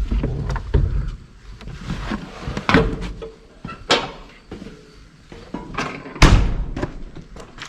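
Irregular knocks and thuds, a few sharp ones, over bursts of low rumble.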